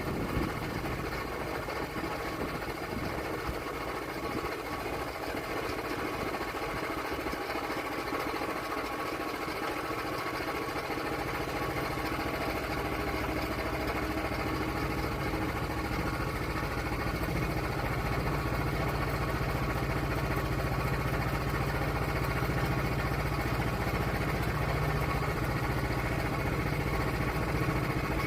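Portable sawmill's gasoline engine running steadily, its sound getting gradually louder and fuller in the low end about halfway through.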